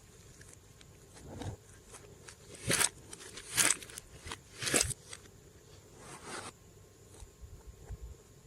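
Glossy slime being squished and worked by hand: a run of soft sticky clicks, with three louder squishes about a second apart in the middle.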